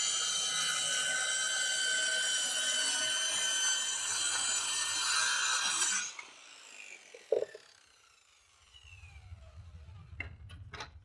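Corded Ryobi circular saw cutting through form ply, a steady high whine that stops about six seconds in, then the blade spinning down with a falling pitch. A single thump follows, then two clicks near the end.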